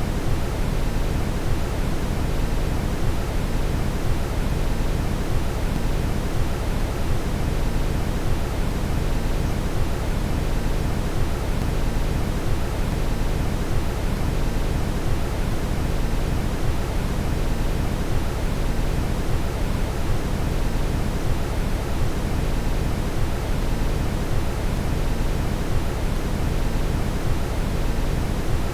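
Steady brown noise: an even, deep rushing hiss, heaviest in the low end, that does not change.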